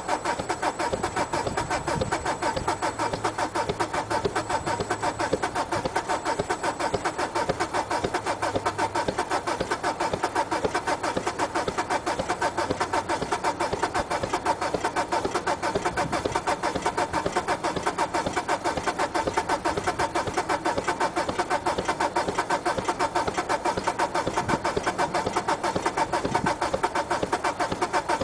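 Diesel car engine idling after a cold start, with a steady, rapid clatter.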